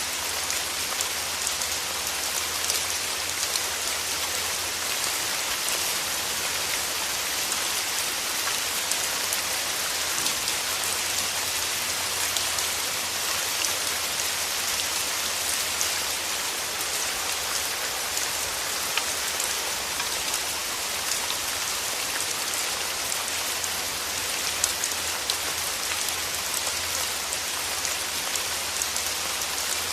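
Steady rain falling through forest trees, a constant hiss with many individual drops heard as small ticks.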